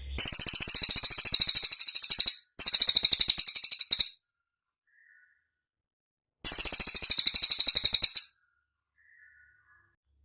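Cililin singing: three rapid, high-pitched trills of evenly repeated notes, each about two seconds long, with a couple of faint short chirps in the gaps.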